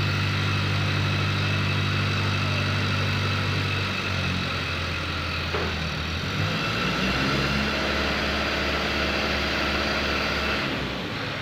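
Diesel engine of a hydra mobile crane running, its engine note shifting a few times, about four and six seconds in, along with a steady high whine that stops near the end.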